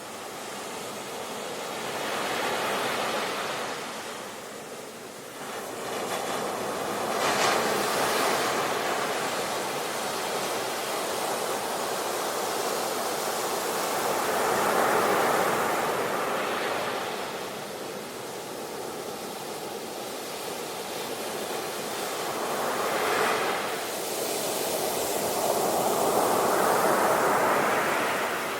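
Ocean waves breaking and washing on the shore, the surf swelling and receding in slow surges every several seconds.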